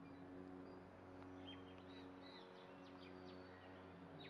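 Near silence: faint bird chirps, short and scattered, over a low steady hum.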